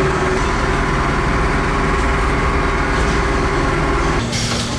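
Workshop machinery running with a steady low engine-like hum. The sound changes abruptly near the end to a different steady hum.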